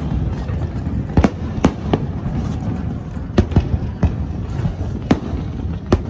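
Aerial fireworks shells bursting in a string of about eight sharp bangs at uneven intervals, over a steady low rumble.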